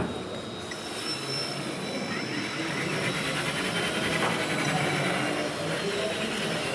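Steady background din of a busy model-building exhibition hall, with a few faint high-pitched whines running through it.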